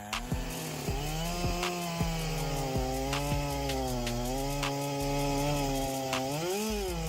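Chainsaw engine running steadily, its pitch wavering and dipping briefly before recovering about six and a half seconds in, with sharp clicks at intervals.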